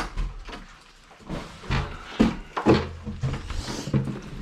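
A series of knocks and thuds, several of them about half a second apart, with a hiss near the end.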